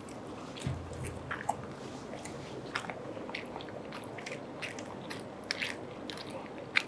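Two people chewing mouthfuls of loaded fries, with irregular small clicks from the mouth.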